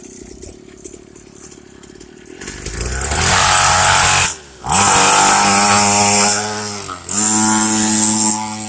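Small dirt bike engine revving in bursts: it climbs from a low idle about two and a half seconds in, then is held at high revs three times with brief drops off the throttle in between.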